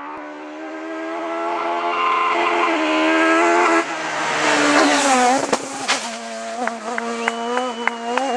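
Two-litre front-wheel-drive rally car engine at high revs, its note climbing as the car closes in, then dropping about five seconds in as it passes. In the second half the engine runs on at a steadier pitch with a string of sharp cracks and pops.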